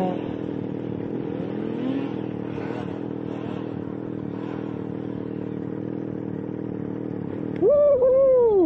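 Snowmobile engine running at steady revs. A man's voice briefly cuts in near the end.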